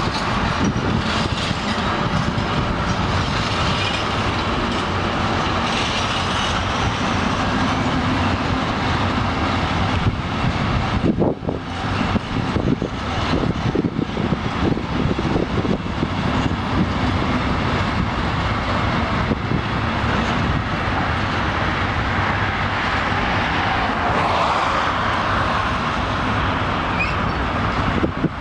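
Intermodal freight train of container and trailer wagons rolling past, its wheels running steadily on the rails.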